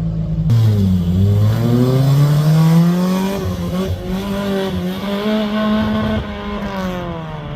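Rally car engine accelerating hard: its pitch dips, then climbs steadily for about two seconds, holds high with some wavering, and falls away near the end as the driver eases off.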